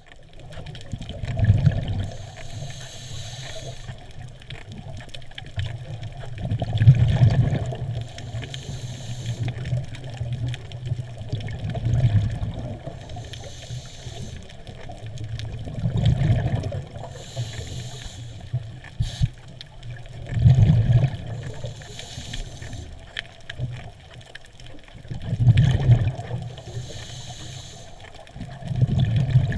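Scuba breathing heard underwater through a regulator: a low rumble of exhaled bubbles alternating with a hiss of inhalation, in a slow cycle about every five seconds.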